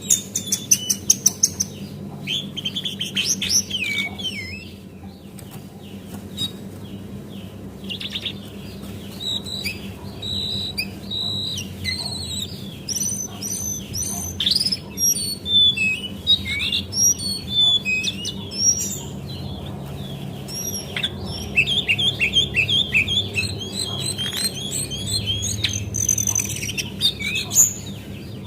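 Female brown cingcoang (jongkangan coklat), a shortwing, singing a fast run of varied high chirps and trills, sparser a few seconds in and busiest in the second half. A steady low hum runs underneath.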